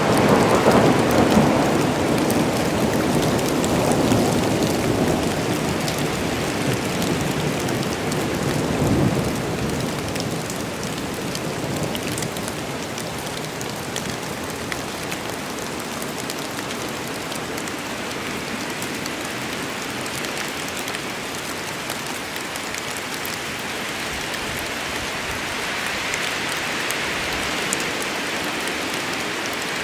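Rainstorm: steady rain falling, with a roll of thunder that fades away over the first ten seconds or so.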